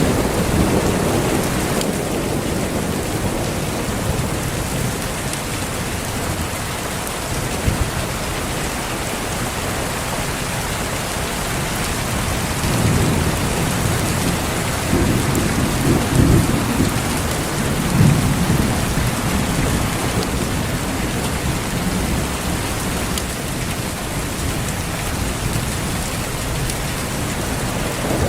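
Steady rain falling, with rolls of thunder rumbling low underneath. The thunder swells a little in the middle, with its loudest rolls about two-thirds of the way through.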